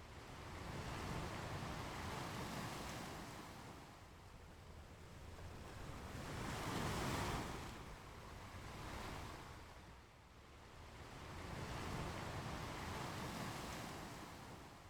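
Ocean waves breaking and washing up on a beach, swelling and fading in slow surges, with the biggest wave about seven seconds in.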